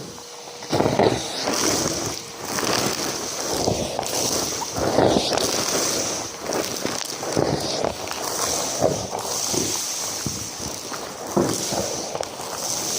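Numatic James vacuum cleaner running and sucking up a dry mess, the debris crackling and knocking irregularly as it is drawn in.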